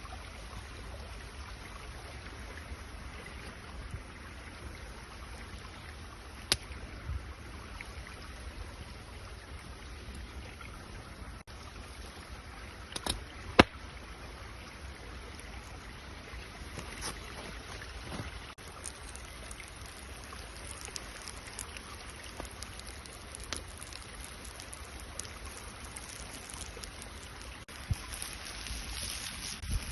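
Steady rush of running water, with a few sharp clicks, the loudest about halfway through.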